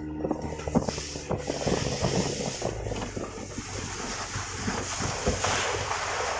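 Motorboat running underway, with water rushing past the hull and wind on the microphone. The rush of water and wind grows louder near the end.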